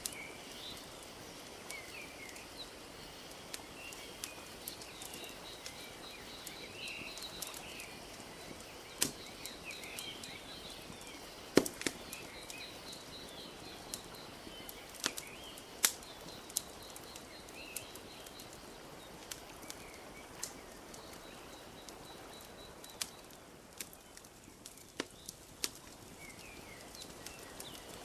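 Wood fire crackling with scattered sharp pops, the loudest a little before halfway, over a steady wash of gently lapping lake water. Small birds chirp now and then, and a faint high trill runs through most of it.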